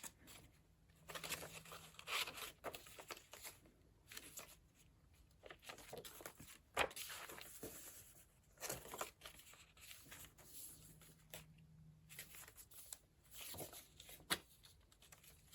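Paper pages of a handmade junk journal being turned and handled: faint rustling and crinkling of layered papers, with a few sharper page flicks.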